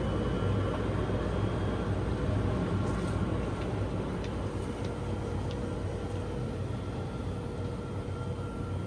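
Steady low rumble and hum of a vehicle in motion, with a few faint ticks a few seconds in.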